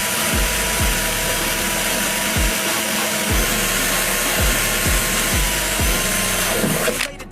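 Power drill running steadily with a high whine, boring out spot welds in a car's quarter panel, and stopping abruptly near the end. Hip hop music with a steady kick-drum beat plays underneath.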